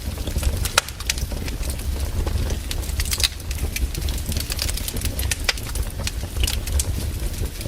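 Wood fire burning, with frequent sharp crackles and pops of the firewood over a steady low rumble of the flames.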